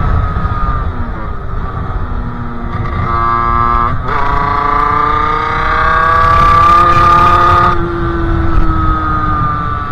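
Sherco 50cc two-stroke engine with a KRM expansion-chamber exhaust, under way: the engine note falls as the throttle is eased off, holds low for about a second, then climbs steadily for several seconds before dropping near eight seconds in and falling away again.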